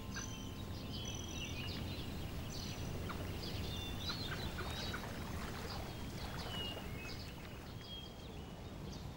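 Birds chirping, with many short calls and brief whistles, over a low steady outdoor rumble.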